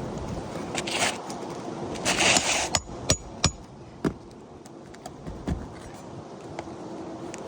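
Scraping on asphalt roof shingles, then four sharp metallic taps, the first ones ringing briefly: a roofer working shingles loose with a metal tool.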